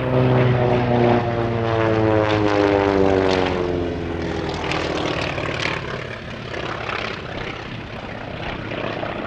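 Piston-engined propeller aircraft flying past, its engine note sliding down in pitch as it goes by and fading over the last few seconds.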